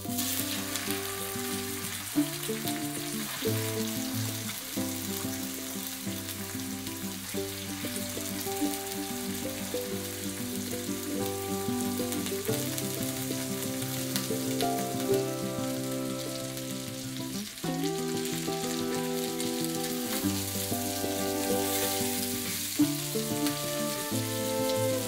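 Marinated chicken thighs sizzling in hot oil in a pan. The frying starts as the first pieces go in and runs on steadily. Background music with a melody plays over it.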